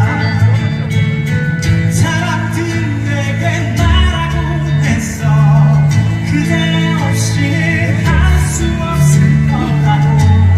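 A gentle song: a man singing over guitar and bass accompaniment.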